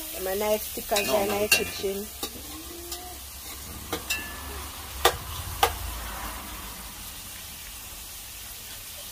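Food frying in hot oil in a cooking pot, a steady sizzle, with several sharp clicks of a utensil against the pot, the loudest a little after five seconds in.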